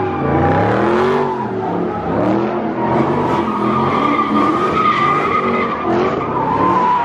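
Car engine revving up and down over and over while its spinning tires squeal steadily.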